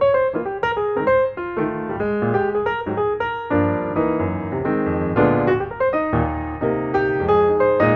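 Background piano music: quick successive notes and chords.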